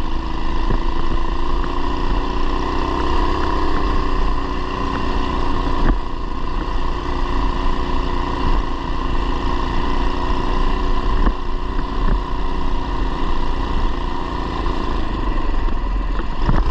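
Coleman BT200x mini bike's swapped-in 212cc single-cylinder engine running steadily while riding. Its pitch rises a little a few seconds in, then eases back.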